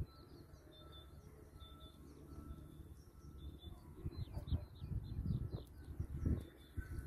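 Small birds calling and singing: short repeated high notes, with a run of quick falling chirps in the middle. Under them a low rumble of wind on the microphone grows stronger toward the end.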